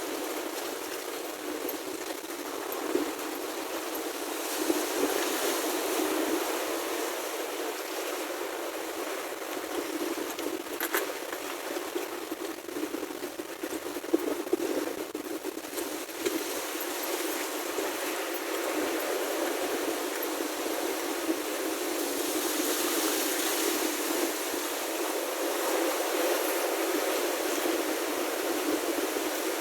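Sea water washing and splashing around rocks: a steady rushing noise that swells and eases, with a couple of faint clicks in the middle.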